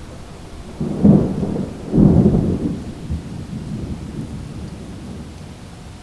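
Thunder rumbling over steady rain. One clap of thunder comes about a second in and a louder one about two seconds in, then the rumble fades away over the next few seconds.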